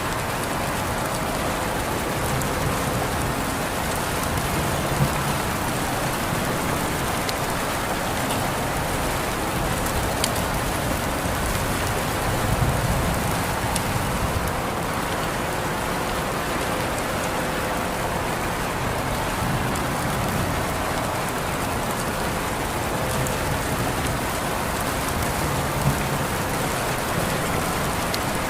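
Steady rain falling on a surface, an even hiss with scattered individual drop ticks and a soft low rumble that swells now and then.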